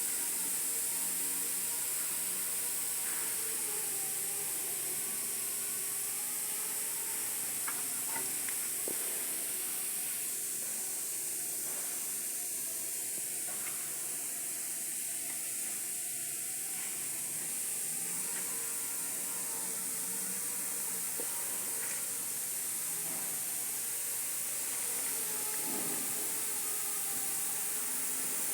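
A steady high-pitched hiss, with faint wavering tones and a few light ticks underneath.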